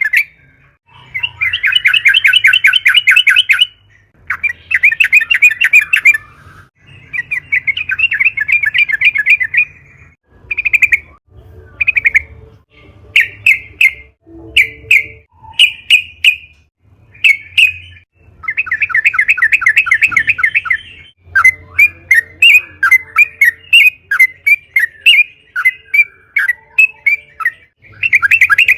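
Yellow-vented bulbul (trucukan) singing: loud, rapid chattering trills lasting two to three seconds each, broken around the middle by a run of short separate notes, then a long choppy run of notes near the end.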